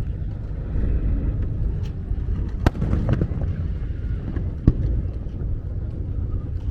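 Aerial fireworks shells bursting: sharp bangs about two and a half and four and a half seconds in, with smaller cracks between, over a steady low rumble.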